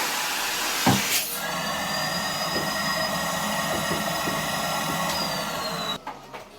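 A knock about a second in, then a small electric motor running steadily with a high whine over rushing air. Its whine drops a little in pitch shortly before it cuts off suddenly.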